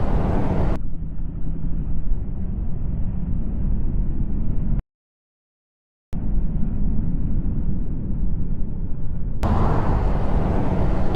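Steady road noise from a moving motorcycle: rumbling wind and engine noise, without a clear engine note. It drops out to dead silence for about a second partway through.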